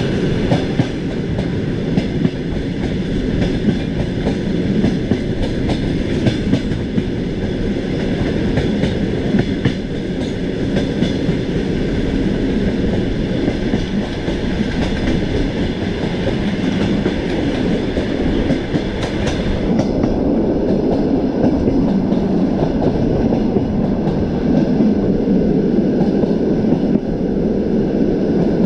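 Train wheels clattering over rail joints above a steady running rumble, as a train rolls along the track, with scattered sharp clicks mostly in the first half.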